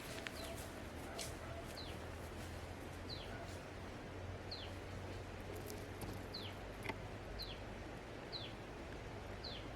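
A bird repeating a short down-slurred call, about one a second, over a steady low background noise with a few faint clicks.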